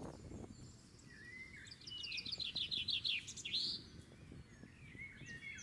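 Songbird singing: a rapid run of about a dozen clear, quick notes about two seconds in, followed by a few short chirps near the end, over a faint outdoor hiss.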